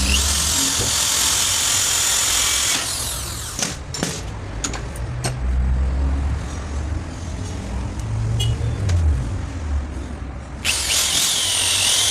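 Power tool grinding with an abrasive in two bursts: about three seconds at the start and about two seconds near the end, a dense high hiss with a faint whine that shifts in pitch. Between them are quieter low rumbling and a few clicks and knocks.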